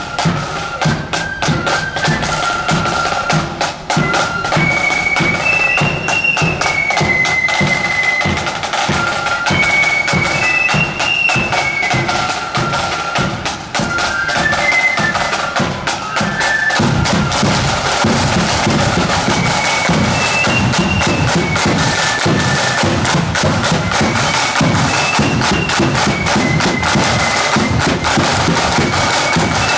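Marching band playing a high, stepping wind melody over rapid snare drumming and bass drum beats.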